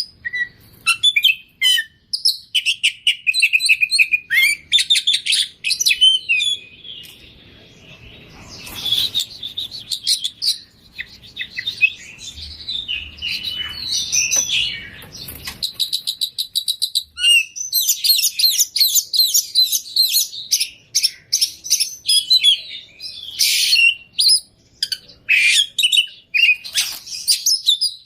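Oriental magpie-robin (kacer) singing a long, varied song of quick chirps and rapid trills, full of mimicked phrases.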